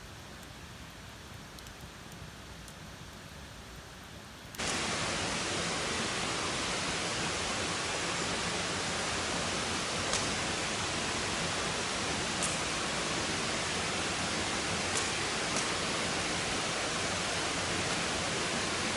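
Steady rushing noise, water-like or wind-like, that jumps abruptly from a quiet hiss to much louder about four and a half seconds in, with a few faint ticks on top.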